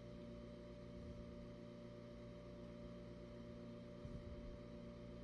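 Faint steady electrical hum with several low fixed tones from a Dell Optiplex 9020 desktop computer that has just been powered on.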